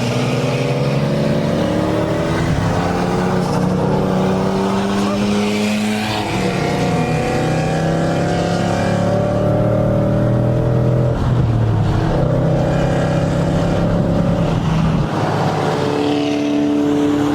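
Car engine pulling under load, its pitch climbing slowly and then dropping at shifts about 6, 11 and 15 seconds in, like a car accelerating up through the gears.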